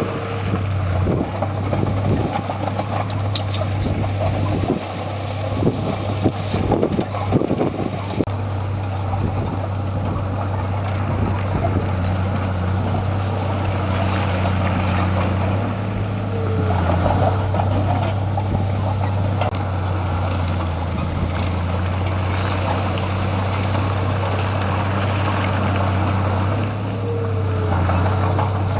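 Diesel engine of heavy earthmoving machinery running steadily, with a spell of clanks and knocks in the first several seconds.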